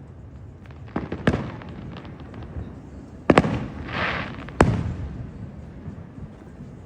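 Fireworks display: aerial shells bursting in sharp bangs, a close pair about a second in, another pair about three seconds in and a single bang just after, with a short hissing crackle in between.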